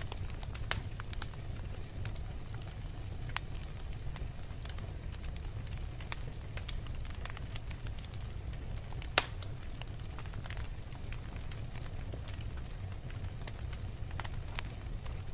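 Wood fire burning in a fireplace, crackling with many small irregular pops over a steady low rumble, and one sharper, louder pop about nine seconds in.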